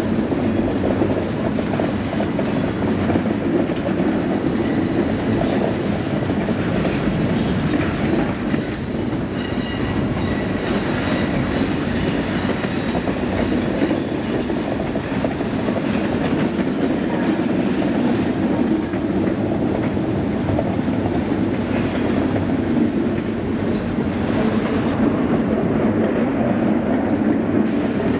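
Freight cars loaded with steel pipe rolling steadily past: a continuous rumble of wheels on rail with clickety-clack, and a faint high wheel squeal briefly about ten seconds in.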